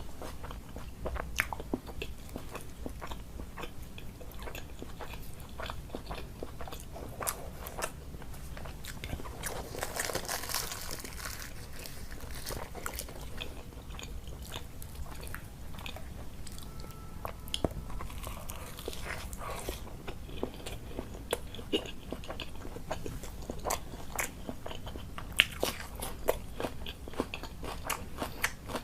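Close-miked mouth sounds of a person eating: chewing and biting with many irregular sharp wet clicks, and a longer, louder noisy patch about ten seconds in.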